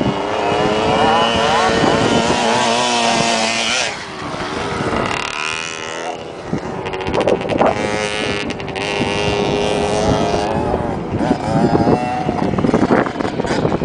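Motocross dirt bike engines revving, their pitch climbing and falling as the riders open and close the throttle, with a brief drop in loudness about four seconds in.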